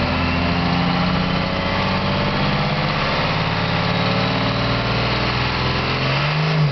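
First-generation Cummins 5.9 L inline-six diesel revved and held, with the Holset HX-35 turbo whistling over the engine as it spools up. The whine climbs over the first couple of seconds and then holds steady.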